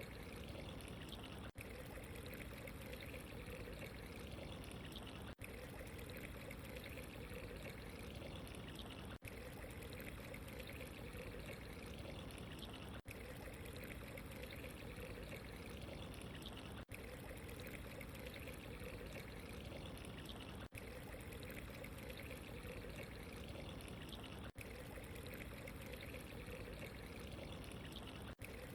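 Steady pouring and trickling water. The even rush is broken by a very short gap about every four seconds.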